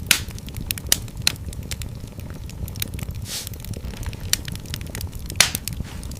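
Wood fire crackling in a fireplace over a low steady rumble of flame, with sharp pops just after the start, about a second in and a loud one near the end, and a brief hiss in the middle.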